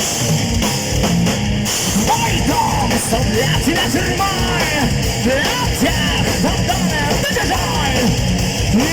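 Heavy metal band playing live, with drum kit and distorted guitars. A gliding, bending lead melody comes in about two seconds in.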